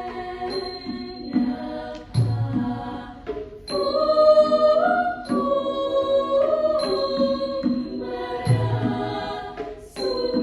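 Music: a choir singing in harmony, with a short high strike about every second and a half and a deep beat twice.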